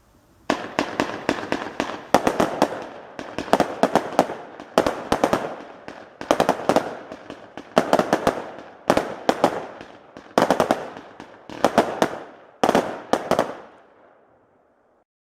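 49-shot consumer fireworks cake firing: about ten volleys of sharp cracks and bangs, each roughly a second long, following one another with short gaps until it stops about fourteen seconds in.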